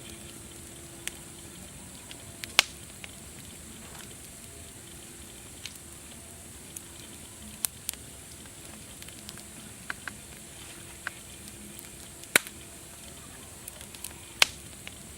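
Wood fire crackling: a steady hiss with scattered sharp pops, the loudest about two and a half seconds in and twice near the end.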